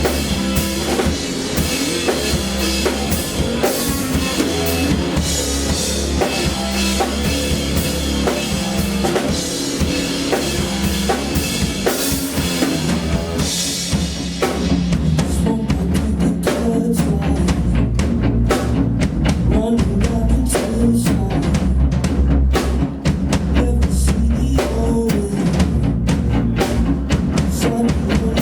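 Live band music with a drum kit and a heavy bass line. About halfway through, the fuller upper layers drop away, leaving a steady drum beat over the bass.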